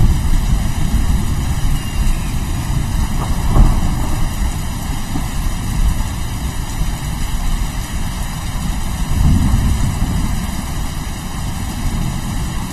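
Steady rain with a deep, continuous rumble of thunder that swells twice, a few seconds in and again past the middle.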